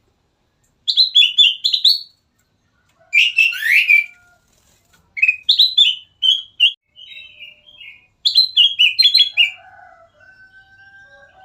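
Kutilang emas, a bulbul, singing four short loud phrases of quick, dropping whistled notes, with a fainter, lower call near the end.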